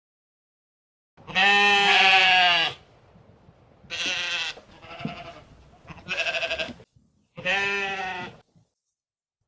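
A goat or sheep bleating four times, the first call the longest and loudest, each call quavering.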